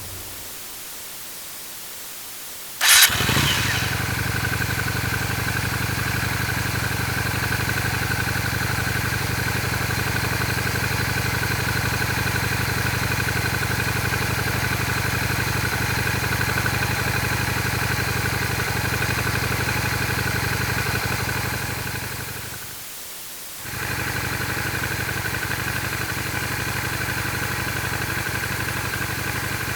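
A motorcycle engine starts up suddenly about three seconds in and runs at a steady idle. It fades out around twenty-two seconds, and a second idling motorcycle engine comes in about a second later.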